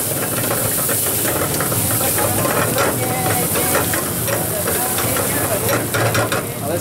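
Onion-tomato masala with freshly added spices sizzling hard in a hot wok over a gas burner, a loud steady hiss, while a metal spatula scrapes and clacks against the pan in quick strokes. The hiss thins out near the end.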